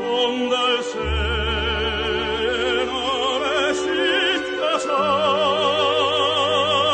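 Classical music in operatic style: long held notes with wide vibrato over an orchestral accompaniment and sustained bass, the chord changing about a second in and again near five seconds.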